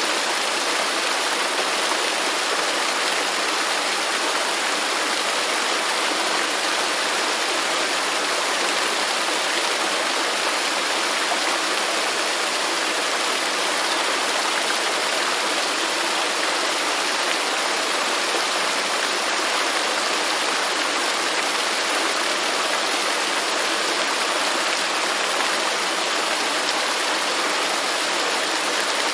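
A waterfall rushing steadily: a dense, even roar of falling water, mostly in the mid and high range, without change.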